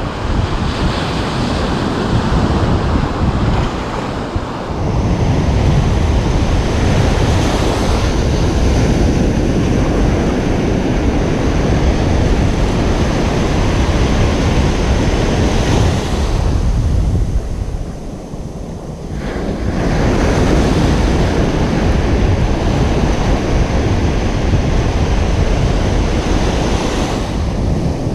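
Ocean surf breaking and washing on a beach, a loud steady rush with wind rumbling on the microphone. It eases for a couple of seconds about two-thirds of the way through, then builds again.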